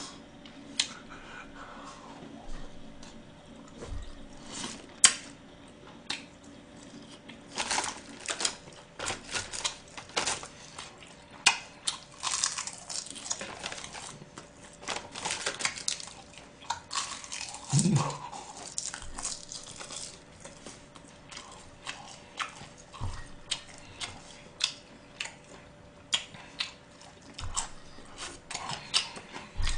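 Close-up chewing and lip-smacking of gwamegi, semi-dried Pohang fish, as irregular wet clicks and smacks, with chopsticks now and then knocking on the dishes.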